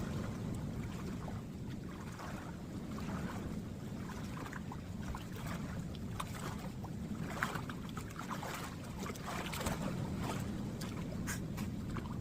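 Swimming-pool water sloshing and splashing close by as a swimmer moves through it, with irregular splashes that grow busier in the second half.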